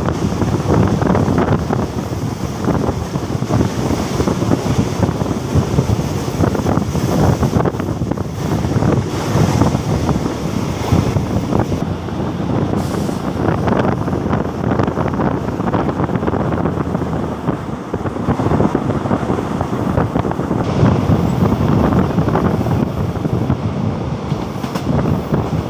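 Wind rushing over the microphone on a moving passenger train, over the steady rumble of the train running along the rails.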